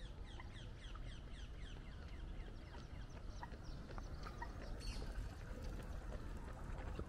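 Birds calling: a rapid series of short, falling chirps, several a second, thinning out after the first few seconds, over a steady low rumble.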